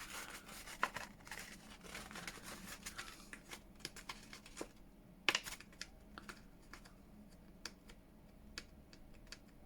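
Faint handling of paper and card by hand: scattered small clicks, taps and light rustles, with one sharper tap a little past halfway.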